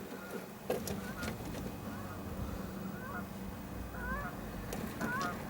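Geese honking: short calls every half-second or so, irregular, over a steady low hum.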